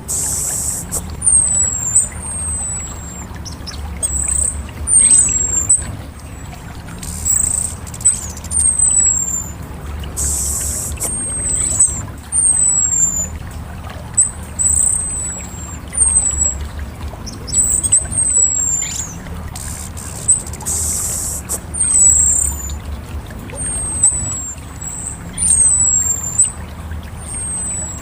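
Orange-headed thrush (anis merah) singing: many short, very high whistles that slide down in pitch, mixed with brief scratchy chattering phrases, over a steady low rumble.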